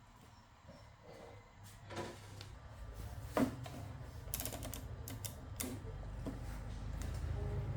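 Scattered small clicks and taps of hands working with tools and parts, over a low hum that grows louder in the second half.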